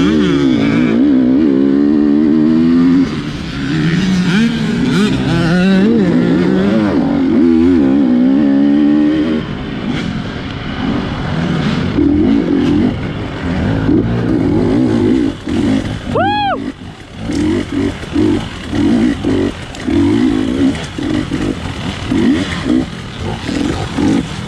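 GasGas 250cc dirt bike engine revving up and down under hard riding, then blipped on and off in short throttle bursts, a little more than one a second, over the second half. A short high squeal rises and falls about two-thirds of the way through.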